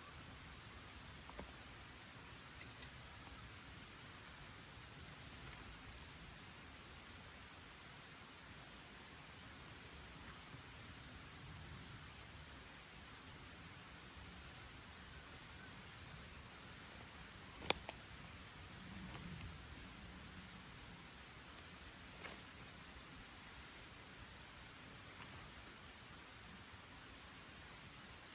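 Steady, unbroken high-pitched trilling of an autumn cricket chorus, with a single sharp click partway through.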